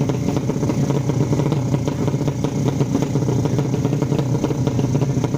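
Motorcycle engine running steadily with a rapid, rattly firing note, without a clear rise or fall in revs.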